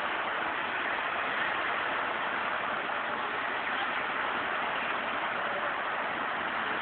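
Steady rushing hiss of water spray, as from fire hoses playing on a burning garbage truck's load.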